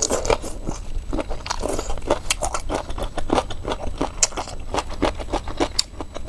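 Close-miked chewing of a mouthful of boneless hot and sour chicken feet: an irregular run of short sharp clicks, several a second.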